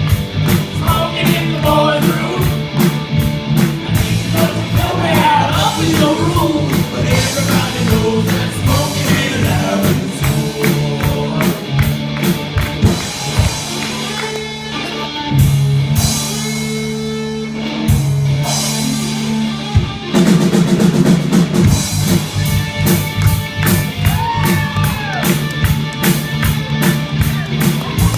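Live rock band playing with drums, bass, guitar and singing. In the middle the drums thin out to a few hits under held low notes for several seconds, then the full band comes back in.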